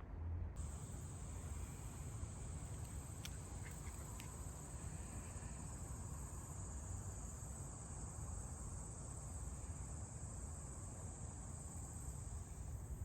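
Faint, steady chorus of crickets, an unbroken high trill, over a low background rumble.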